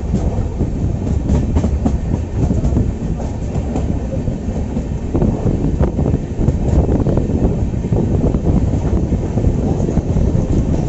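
Indian Railways passenger coach running at speed, heard from its window: a steady rumble of wheels on rail with irregular clicks and clatter as the wheels pass over rail joints.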